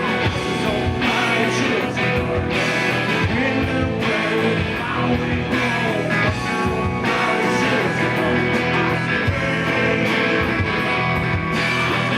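Live rock band playing, with electric guitars and a singing voice over bass and drums.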